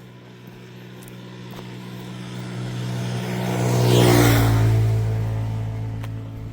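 A motor vehicle's engine passing close by: it grows steadily louder, is loudest about four seconds in, then drops in pitch and fades as it moves away.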